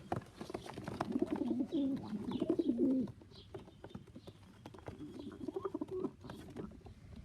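Cock pigeons cooing, low wavering coos for about three seconds, then fainter coos a couple of seconds later, with scattered light taps throughout.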